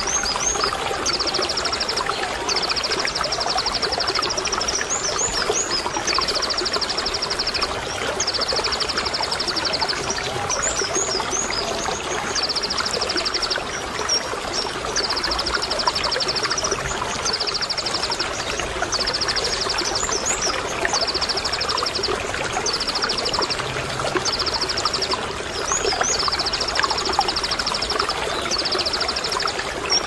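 Konin bird singing its 'tembakan' (shooting) song: a run of rapid, high, machine-gun-like trills, each about half a second to a second and a half long, with short sharp chirps in the gaps. A steady sound of running water lies underneath.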